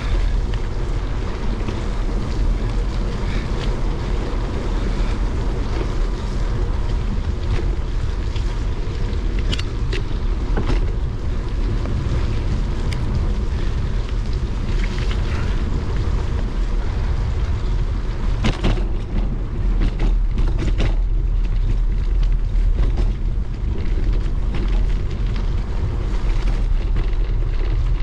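Riding a bicycle in the rain: wind rumbling on the microphone over a steady hiss of tyres on the wet path, with scattered clicks and rattles from the bike, a few sharper ones about two-thirds of the way through.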